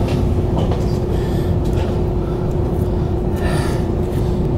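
Steady low hum with one constant tone from an E2 Series Shinkansen car standing at a station platform, heard from inside the cabin. A few faint clicks, and a brief higher-pitched sound about three and a half seconds in.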